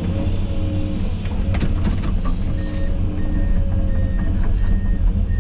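Heavy tractor's diesel engine running under load, heard from inside the cab as a loud steady rumble. From about halfway in, an electronic beeper sounds short, even beeps about every 0.7 s.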